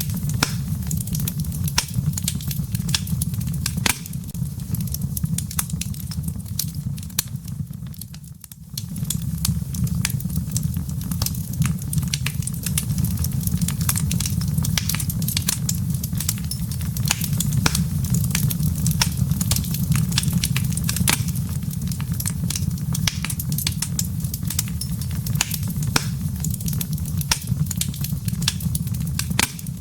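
Wood fire in a fireplace, embers crackling and popping steadily over a low rumble. The sound dips briefly about eight seconds in, then returns.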